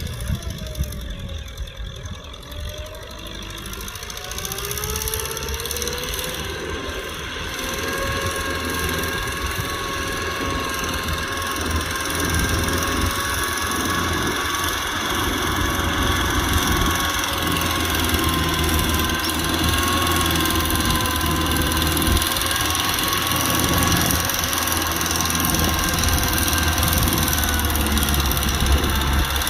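Kubota tractor's diesel engine running, growing louder over the first dozen seconds, with a whine that rises in pitch about five seconds in and then holds steady.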